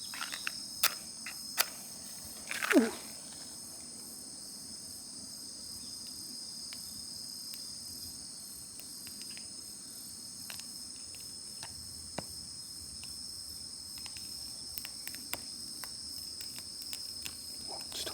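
Crickets chirping in a steady high chorus, with scattered sharp clicks and, about three seconds in, a short louder sound that slides down in pitch.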